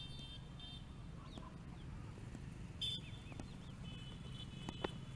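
Birds calling in short, thin, high chirps, some held as flat whistles and some sliding, over a faint steady low rumble of open air.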